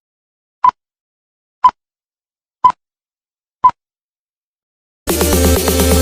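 Four short high electronic beeps, one each second, like a countdown, followed about five seconds in by electronic dance music with a heavy bass.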